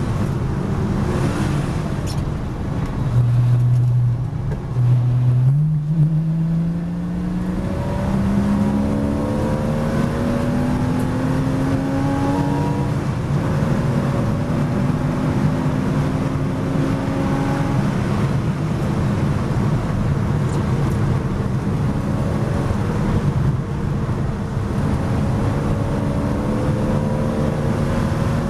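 Porsche Boxster S race car's flat-six engine heard from inside the cockpit under acceleration. The engine note climbs in pitch in long sweeps, falls back and climbs again, holding low and steady for a few seconds early in the run.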